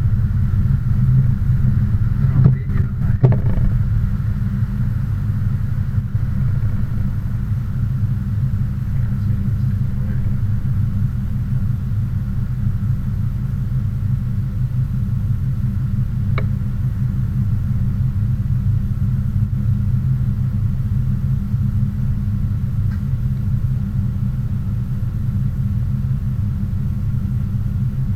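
Steady low rumble of a car's engine and road noise while driving, with a few knocks about three seconds in and a single click later on.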